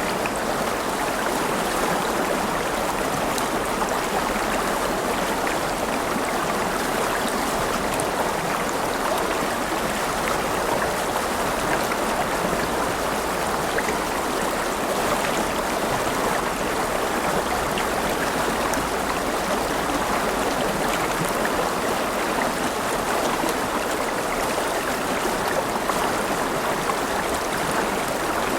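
River water flowing over rocks: a steady rushing with small splashes and trickles, unchanging throughout.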